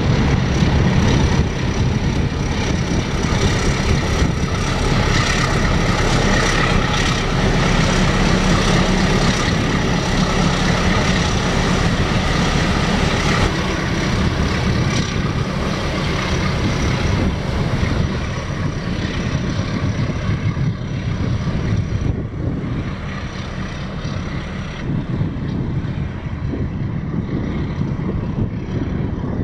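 Diesel engine of a passing inland motor cargo ship running steadily with a deep drone and a faint thin high whine. It is loudest in the first half and grows fainter over the last ten seconds or so.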